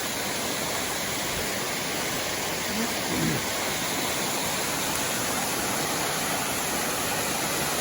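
Small waterfall on a mountain creek, water rushing steadily.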